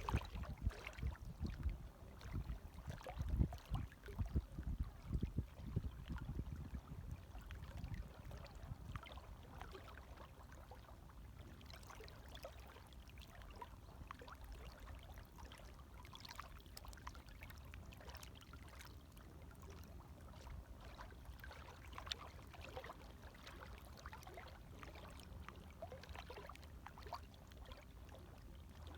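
Gentle water waves lapping softly, with small splashes and trickles. Heavier low surges of water come in the first few seconds, then settle into a steady quiet wash.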